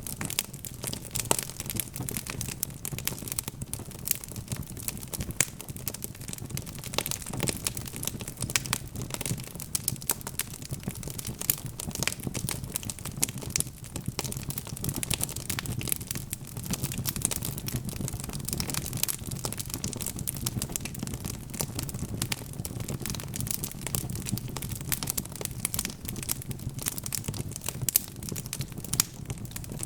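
Wood fire crackling: dense, irregular pops and snaps over a low, steady rumble of burning.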